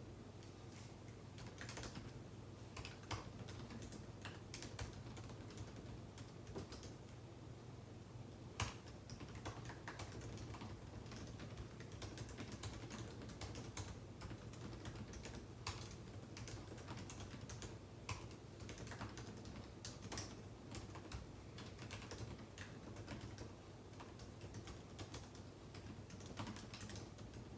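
Typing on a computer keyboard: irregular runs of soft key clicks with brief pauses, over a steady low hum.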